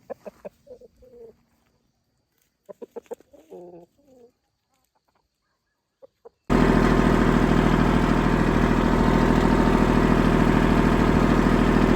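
Chickens clucking in short calls for the first few seconds. Then, about six and a half seconds in, a loud, steady engine sound comes in abruptly and keeps running.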